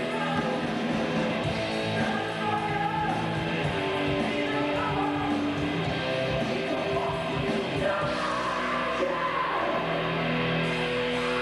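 Rock music from a metal band: electric guitar with sung, partly shouted vocals, playing on without a break.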